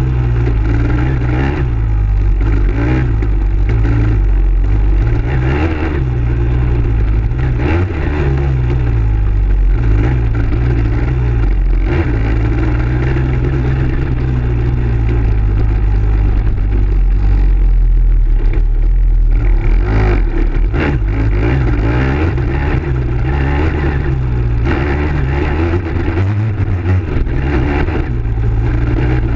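Dirt bike engine running hard and continuously, its pitch rising and falling as the throttle opens and closes and the gears change.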